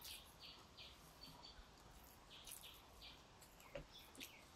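Faint small birds chirping in short, high notes repeated a few times a second, with a couple of soft clicks near the end.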